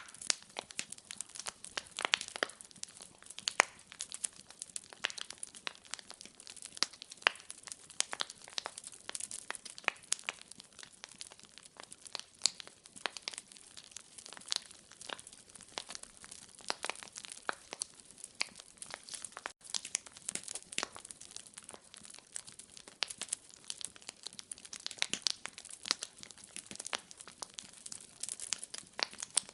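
Fireplace fire crackling steadily, with frequent irregular pops and snaps.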